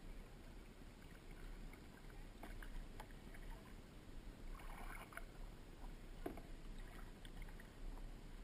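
Kayaking on open water: light splashes and drips from paddle strokes, with a few sharp knocks, over a low steady rumble.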